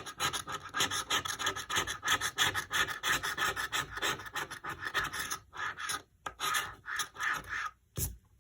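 Scratching the latex coating off a paper lottery scratch-off ticket: a quick run of rasping strokes, with a couple of short pauses near the end.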